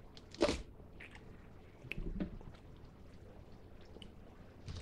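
Faint close-miked mouth noises, chewing and small lip clicks, with one short, louder noise about half a second in.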